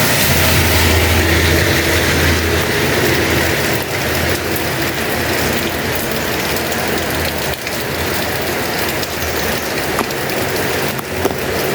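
Heavy rain falling, a dense steady hiss full of fine ticking drop strikes, with a low steady hum underneath.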